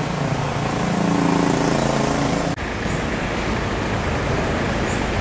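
Motorbike engine running close by, its pitch rising a little. About two and a half seconds in, it gives way to a steady noisy rush of road traffic.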